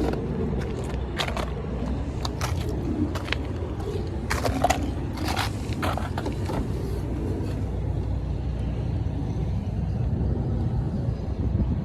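Truck engine running with a steady low rumble, with a scatter of sharp clicks and knocks over the first seven seconds or so. The sound drops off abruptly at the very end.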